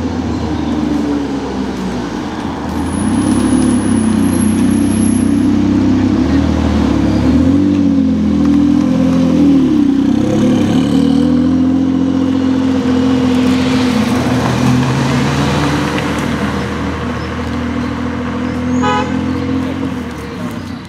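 Jaguar XJ220's twin-turbo V6 running at low revs as the car rolls slowly past, its pitch wavering a little, loudest in the middle as it comes close. Near the end it fades while other supercar engines run at low revs.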